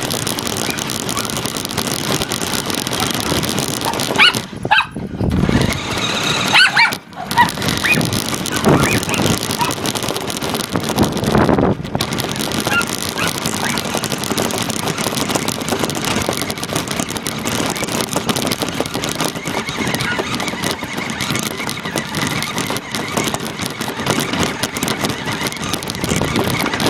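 RC car driving, recorded by a device taped to its body: steady, dense rattling and motor noise. Between about four and nine seconds in, the noise briefly drops out twice and a few short higher-pitched sounds come through.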